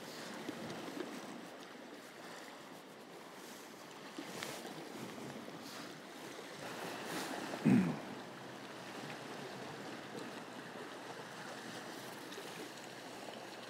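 Sea washing steadily against the shore rocks, with one brief low thump a little past the middle.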